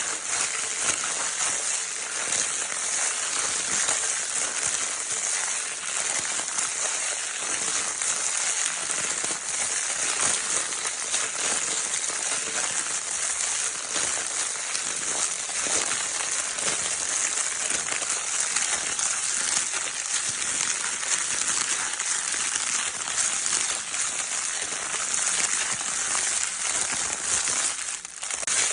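Crinkle paper baby toy being crinkled continuously: a dense, steady, crackly rustle, with a brief lull near the end.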